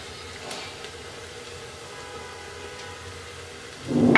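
Chopped onion and garlic sizzling steadily in hot mustard oil in a pressure cooker, with a brief louder sound near the end.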